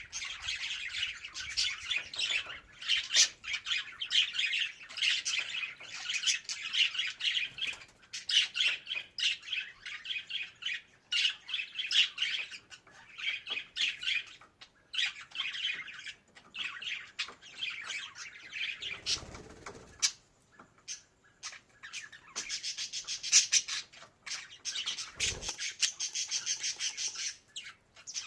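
Budgerigar warbling and chirping: a dense, fast run of chirps and squawks, with a short lull about two-thirds of the way through.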